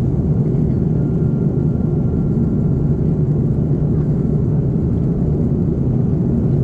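Steady low rumble of engine and airflow noise inside the cabin of an Airbus A330-300 with GE CF6-80 engines, even throughout, with a faint thin whine above it.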